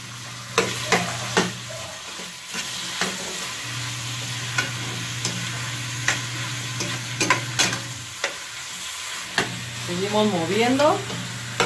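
Chicken and sliced onion sizzling in hot oil in a stainless steel pot, with a metal spoon scraping and clicking against the pot as they are stirred. A steady low hum runs underneath, dropping out twice.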